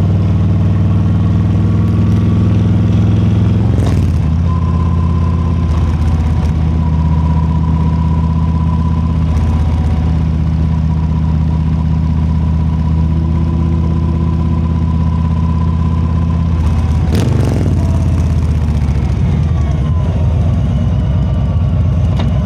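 Harley-Davidson Low Rider S's Milwaukee-Eight 117 V-twin engine running steadily under way, with brief dips and recoveries in engine pitch about four seconds in and again about seventeen seconds in.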